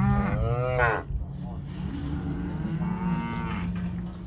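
Cattle mooing: one loud call that rises and falls in pitch in the first second, then a second, fainter and longer moo near the middle, over a steady low hum.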